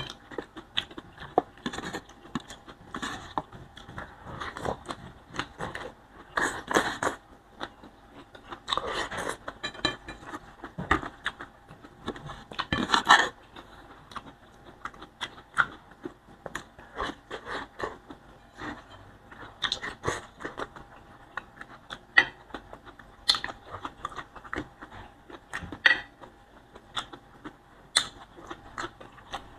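Close-miked chewing and crunching of boiled vegetables eaten by hand, an irregular run of bites and chews with a few louder stretches of crunching.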